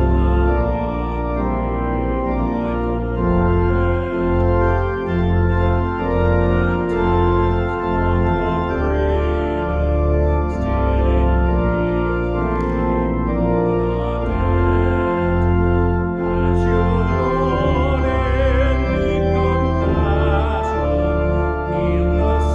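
Organ playing a hymn tune in full, held chords over a deep bass line, the chords changing about every second.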